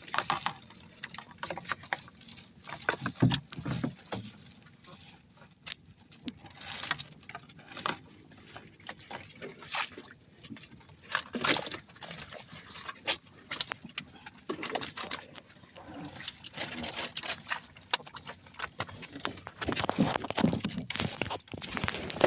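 A fishing net being hauled by hand into a small boat: irregular knocks and clatters against the hull, with water splashing and dripping off the net.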